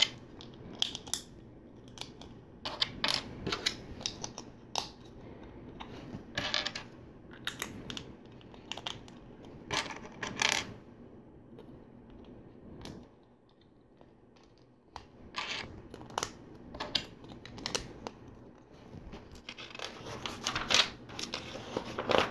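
LEGO plates and tiles being handled and pressed into place on a build: irregular small plastic clicks and rattles, with a quieter pause about two thirds of the way in.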